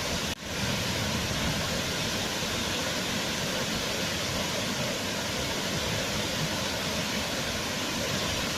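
Waterfall rushing steadily, with a brief dip in level shortly after the start.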